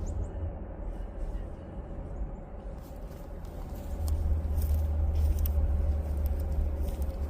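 CSX empty coal train running past with a steady low rumble that grows louder about four seconds in, with faint clicks over it.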